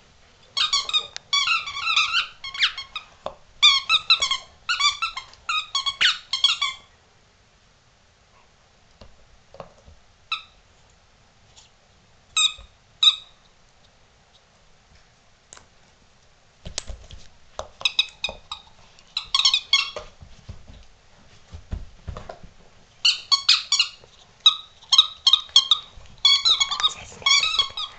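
Squeaky rubber toy being chewed by a yellow Labrador, giving runs of quick, high squeaks with a pause in the middle and a few single squeaks between the runs. Dull thumps sound alongside the second run.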